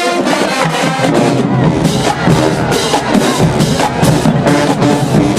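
Marching band playing loudly, with the drumline's bass drums and snare drums beating a steady, driving rhythm under the horns.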